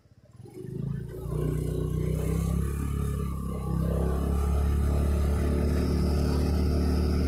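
Motorcycle engine coming up over about the first second, then running steadily as the bike rides along.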